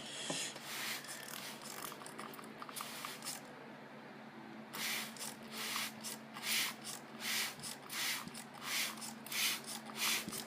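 Ryko Soft Gloss automatic car wash working over a car: irregular hissing rushes of spray and cloth, then from about halfway a regular run of rushes about one and a half a second, over a steady low machine hum.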